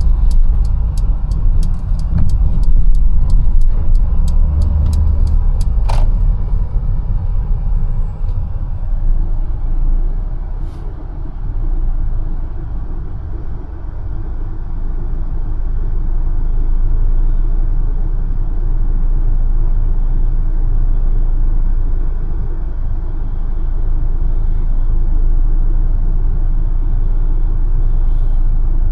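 Mercedes-Benz A180 driving on city streets: a steady low rumble of engine and road noise. For the first six seconds a regular ticking, about two ticks a second, runs over it and ends with one sharper click; the rumble eases a little for a few seconds and then holds steady.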